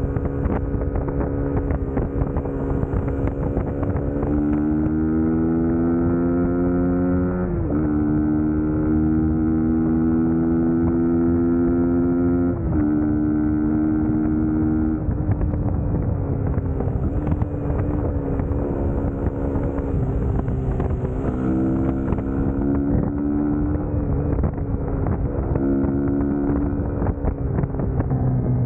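Suzuki GSX-S150's single-cylinder four-stroke engine pulling under a rider, its pitch climbing with the throttle and dropping abruptly at several gear changes, with wind noise on the microphone.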